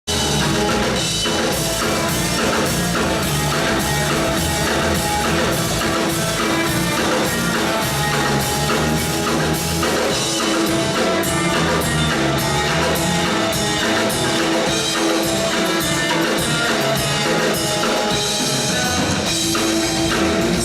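Rock band playing live, an instrumental passage with no singing: a drum kit keeps a steady beat of about two hits a second under guitars.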